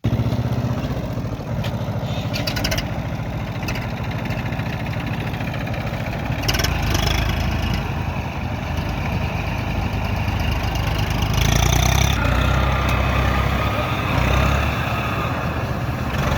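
Tractor diesel engine running steadily, growing louder about six seconds in and again near the two-thirds mark.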